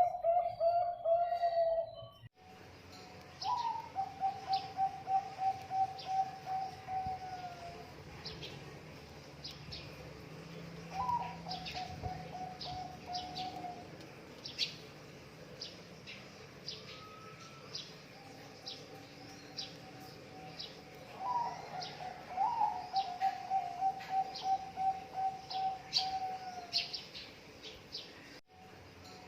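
Zebra doves (perkutut) cooing in several phrases with pauses between. Each phrase opens with a higher note, then runs into a fast, even trill that drops in pitch at the end. Short, sharp chirps from small birds sound above it throughout.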